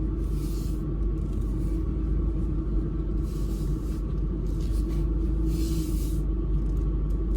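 Steady low rumble of a car engine running slowly, heard from inside the cabin. Four short hisses come and go over it.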